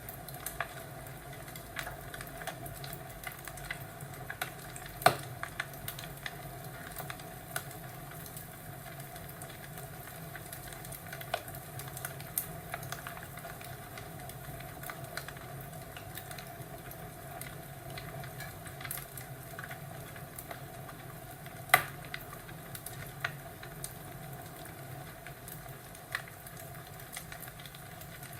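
Wood fire crackling: a steady hiss with many small scattered crackles and two sharp pops, about five seconds in and again about twenty-two seconds in.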